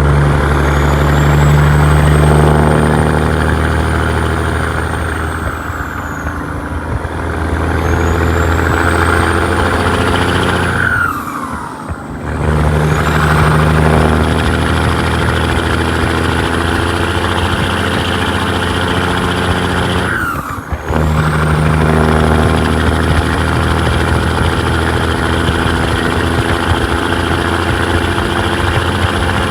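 Caterpillar 3406E (6NZ) inline-six diesel in a 1998 Peterbilt truck running hard under load, with a high whistle over the engine note. Twice, about a third of the way in and again about two-thirds in, the engine note falls and dips briefly for a gear change before pulling again.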